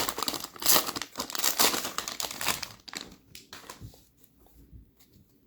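Wrapper of a Panini Chronicles basketball card value pack being torn open and crinkled, a dense crackle that dies away about three seconds in, leaving a few faint ticks of handling.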